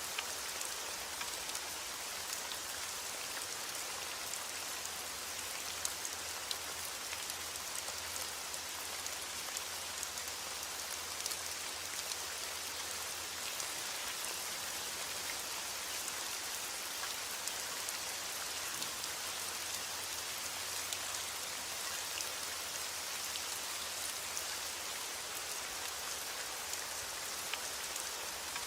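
Steady rain falling, an even hiss with scattered individual drop clicks, unchanging throughout.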